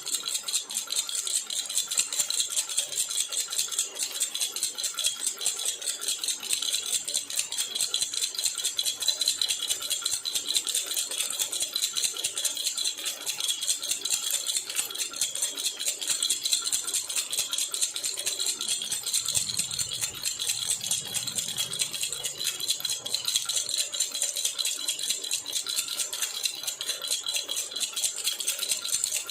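Jhunjhuna baby rattle shaken steadily without pause, a rapid, even rattle.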